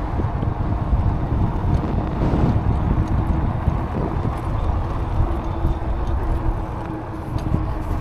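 Wind buffeting the microphone while riding an e-bike, with a faint steady hum underneath.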